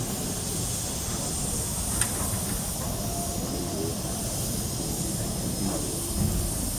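Steady hiss of escaping steam from the C61 2 steam locomotive, over a low steady rumble, with a single small click about two seconds in.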